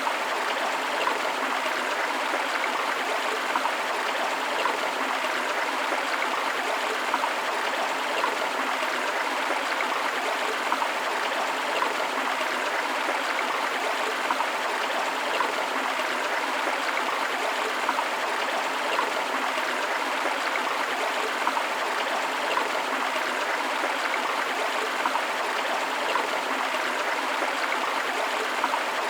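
River water flowing over rocks in a steady, unbroken rush, with small splashes and gurgles rising briefly out of it every second or so.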